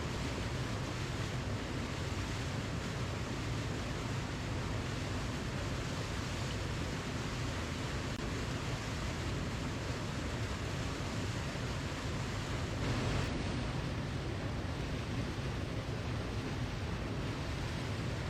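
Steady rushing of a waterfall, an even unbroken roar of falling water, heaviest in the low end.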